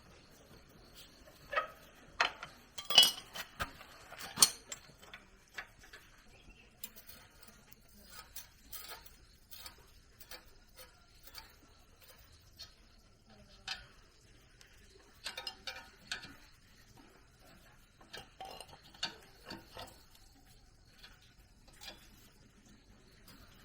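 Metal parts and hand tools clinking and tapping in irregular clicks, loudest in a cluster of knocks early on and then scattered.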